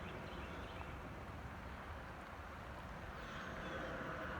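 Quiet outdoor ambience: a steady low rumble with a soft hiss, a little louder near the end.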